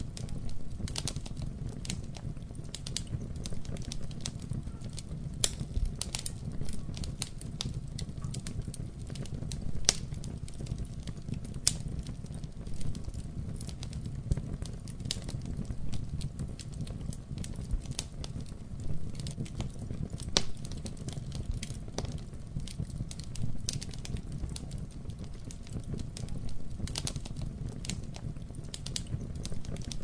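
Wood fire burning in a fireplace, a low steady rumble of flames with frequent irregular crackles and pops.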